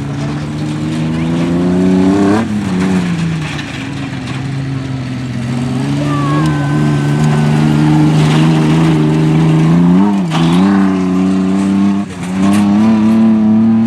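Tough-truck engine revving hard under load. Its pitch climbs steadily, then drops sharply about two and a half seconds in, again near ten seconds and again near twelve seconds, as the throttle is lifted and reopened.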